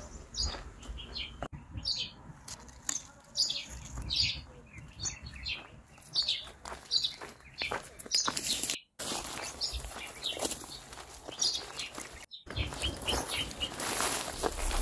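Birds chirping: many short, high calls one after another, broken by two brief silent gaps.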